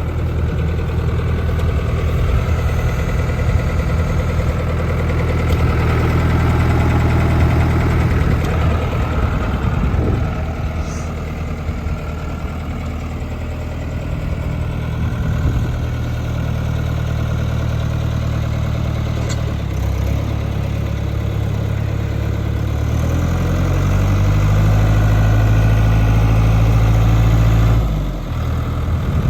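1997 New Holland 4835 tractor's diesel engine running at idle, the revs stepping up about three-quarters of the way through and dropping back shortly before the end.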